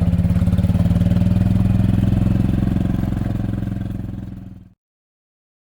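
A small vehicle engine idling steadily, fading out over the last couple of seconds and then cutting to silence.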